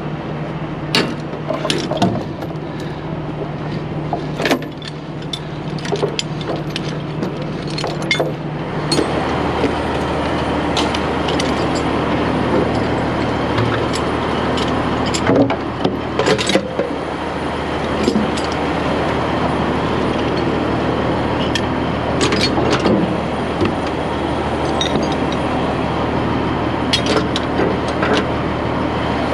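A heavy engine running steadily, its note dropping lower and getting louder about nine seconds in, with scattered sharp metallic clinks and knocks throughout.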